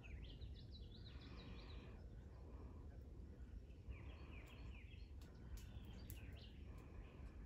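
Faint twittering of small birds: two bouts of quick, high chirps, one right at the start and another around the middle, over a low steady rumble.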